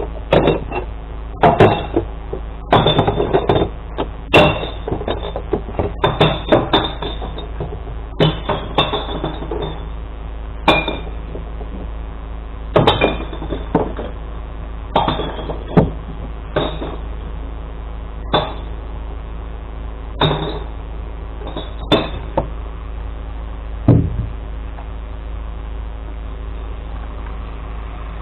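Kerbside glass recycling being tipped into a glass-collection truck: a series of irregular clanks and knocks, thickest in the first few seconds and then spaced a second or two apart, over the steady hum of the truck's idling engine.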